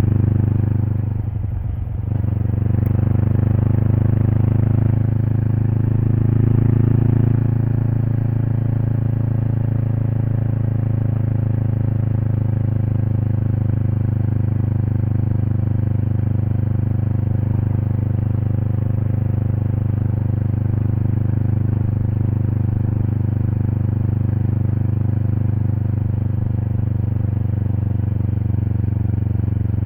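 Kawasaki Eliminator SE's parallel-twin engine through a BEAMS aftermarket header and muffler, riding along at a steady pace. The exhaust note dips briefly about a second in, rises a little a few seconds later, then holds steady.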